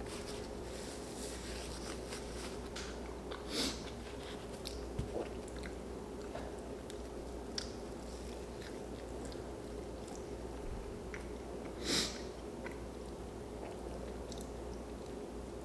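Close-miked chewing and biting mouth sounds of a person eating, with scattered small clicks and two short louder noises about three and a half and twelve seconds in, over a faint steady hum.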